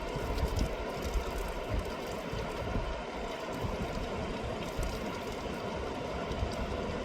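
Steady rush of a fast-flowing river, with wind buffeting the microphone as low rumbles, mostly in the first couple of seconds.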